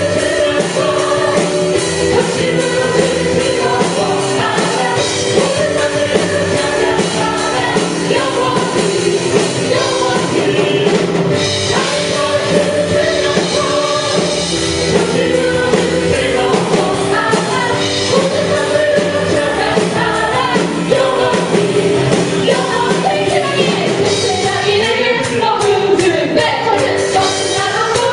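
A worship band playing and singing a praise song live: singers over a rock-style band with a steady beat.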